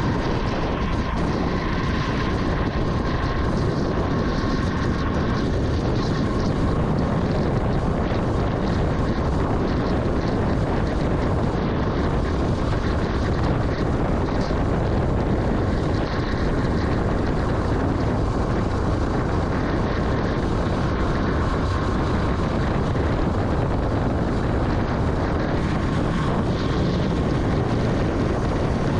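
Vintage Yamaha motorcycle running steadily under way, its engine mixed with constant wind and road noise.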